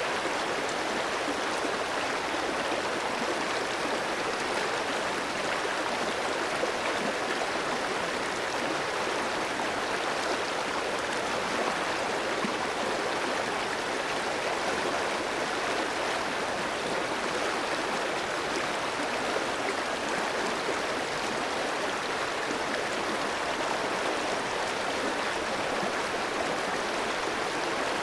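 A clear mountain stream flowing over rocks: a steady rushing and gurgling of water.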